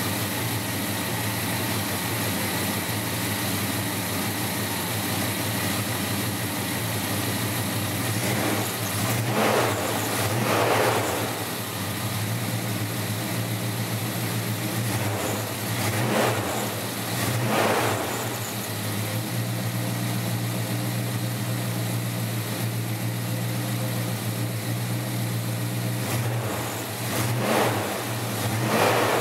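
Plymouth Duster's 340 V8 with a Holley four-barrel carburettor and dual exhaust idling steadily. It is revved in quick pairs three times: about a third of the way in, past the middle, and near the end.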